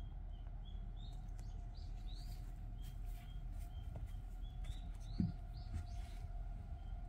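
Small birds chirping: a steady run of short, high chirps a few times a second, with louder sweeping calls in the middle, over a low steady hum. A single soft thump comes about five seconds in.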